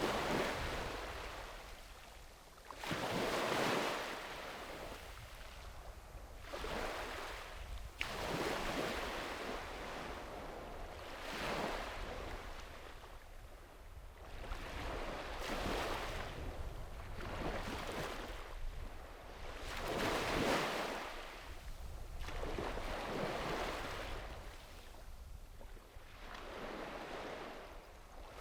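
Sea waves breaking and washing up the shore, one surge swelling and fading every two to four seconds, over a steady low rumble.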